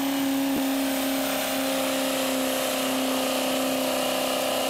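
Diesel pulling truck's engine held at high, steady revs under full load during a pull, one constant note that cuts off abruptly at the end.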